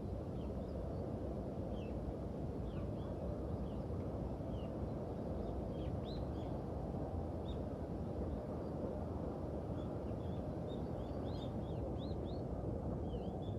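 Small birds chirping in short, high calls, scattered at first and coming thicker in the last few seconds, over a steady low rumble.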